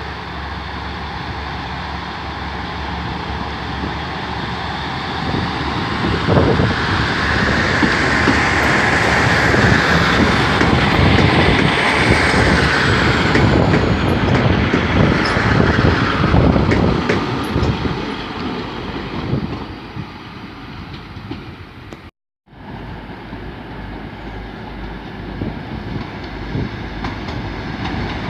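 A train passing close by, its wheels clicking over the rail joints with a brief high-pitched wheel squeal; it grows louder, peaks in the middle, then fades. After a short break, another train is heard approaching near the end.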